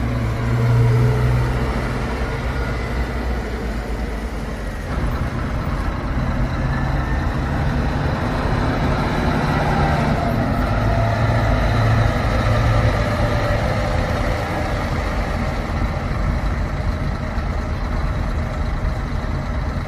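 Scania coach engine running with a steady low rumble that changes in character about five seconds in.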